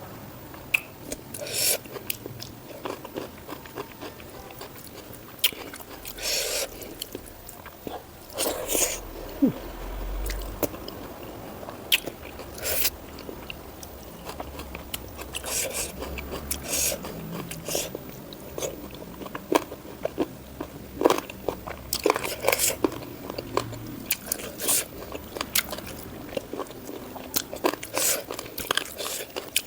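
Close-miked eating: a person taking repeated crunchy bites and chewing, with irregular sharp crackles throughout.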